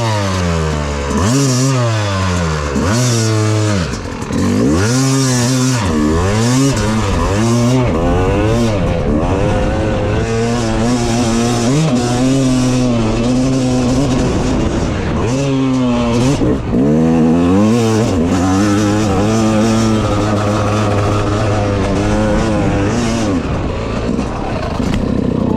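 Yamaha YZ250X two-stroke single-cylinder dirt bike engine revving hard while riding. Its pitch climbs and drops again and again in the first several seconds, then holds steadier at high revs, with another rise and drop midway.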